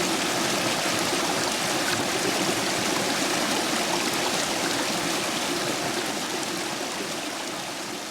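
Stream water rushing and splashing through the gaps between stepping stones, flowing high after heavy rain: a steady, even rush that gradually fades out over the second half.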